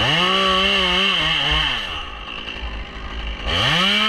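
Two-stroke chainsaw throttled up to full speed, its pitch wavering under load as it cuts, then dropping back about two seconds in. It revs up again near the end.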